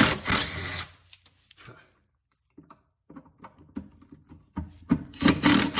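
A power drill spins briefly twice, once at the start and again about a second before the end, with light clicks and taps of tools and parts in between.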